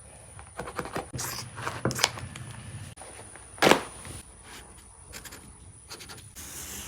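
Hand work on an old car seat being taken apart: scattered scrapes and light clicks, with one louder knock a little past halfway.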